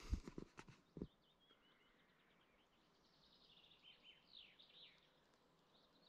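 Near silence with faint birdsong: a run of quick, high chirps in the middle. A few soft clicks near the start.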